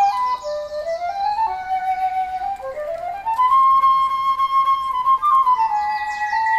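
Slow flute melody moving by steps and gliding between notes, with one long held note in the middle. Small birds chirp briefly in the first second.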